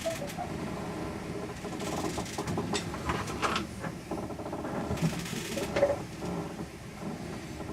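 Strong wind aboard a sailing boat, with a continuous mechanical rattle and creak and brief hissing rushes about two, three and five seconds in.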